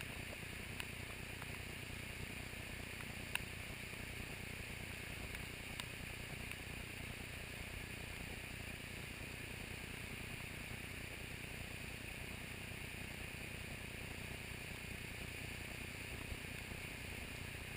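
Muddy flash-flood water rushing through a culvert in a steady, even rush, with a couple of faint clicks a few seconds in.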